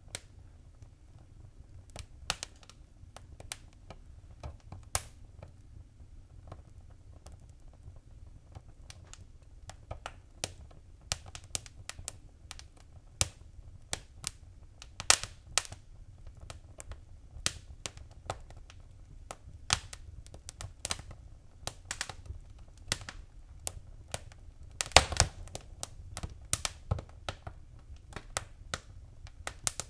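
Wood fire in a fireplace crackling: irregular sharp pops and snaps over a faint low rush of the flames. The pops get more frequent as it goes, with a louder cluster near the end.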